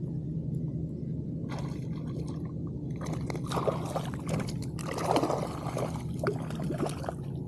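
Shallow bay water splashing and sloshing in uneven bursts, starting about a second and a half in and heaviest from about three seconds until near the end, over a steady low hum.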